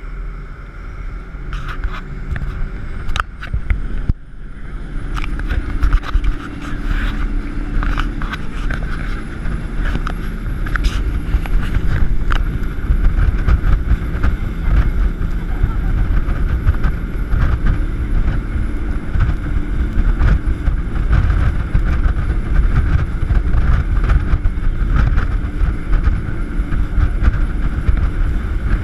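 Jet boat running at speed with heavy wind rumble on the action-camera microphone and scattered sharp knocks. The sound dips briefly about four seconds in and then stays loud.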